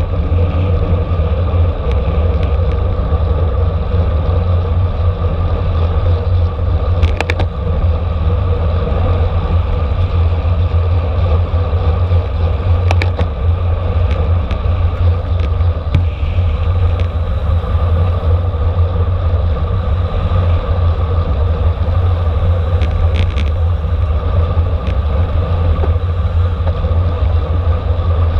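Steady rumble of wind and road noise from a racing bicycle at speed, heavy in the low end as if buffeting the microphone, with a few faint clicks now and then.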